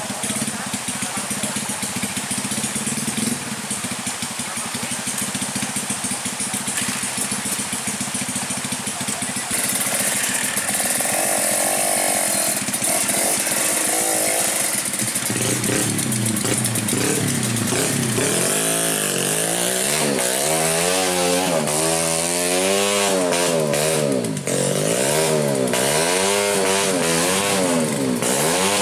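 Trail dirt bike engines running steadily, then from about halfway an engine revved up and down again and again, its pitch rising and falling every second or so.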